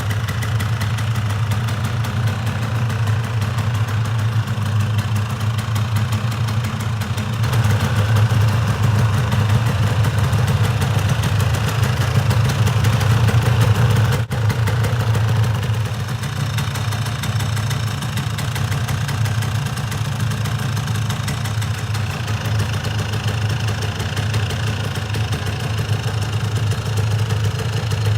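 1987 Yamaha SDR200's single-cylinder two-stroke engine idling through its original stock exhaust. It runs a little louder for several seconds midway, with a brief dip near the middle before it settles back to a steady idle.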